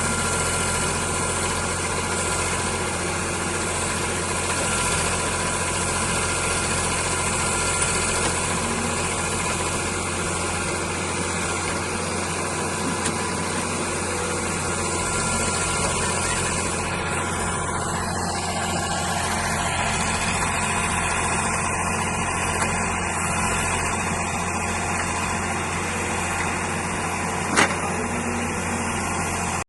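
Heavy diesel engine of a tractor or backhoe loader running steadily at a constant speed, with one sharp click near the end.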